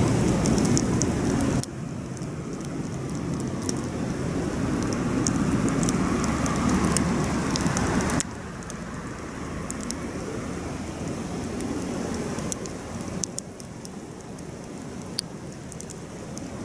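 Wood campfire burning: a steady rush of flames with scattered sharp crackles and pops from the burning wood. The overall level drops suddenly twice, about one and a half seconds in and again about eight seconds in.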